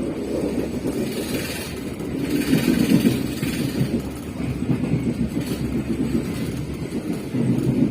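Passenger train in motion: a steady low rumble of the coaches and wheels on the track, growing louder with a rushing hiss around two to three seconds in.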